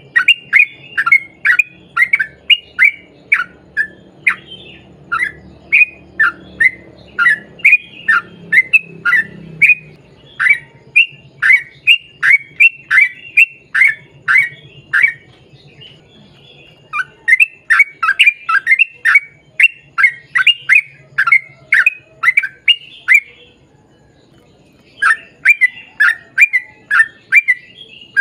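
Yellow-vented bulbul (trucukan) singing a long, fast run of short, loud, falling notes, about three a second, in three bursts broken by two short pauses.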